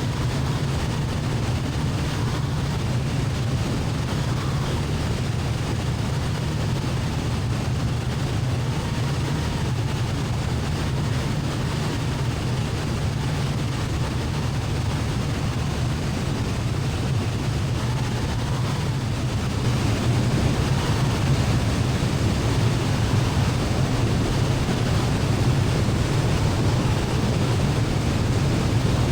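Light piston airplane's engine and propeller droning steadily in the cockpit during the landing approach, growing a little louder about two-thirds of the way through.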